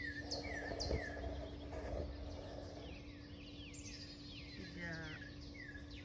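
Songbirds chirping: repeated short, falling chirps, with a fast trill about five seconds in, over a steady low hum.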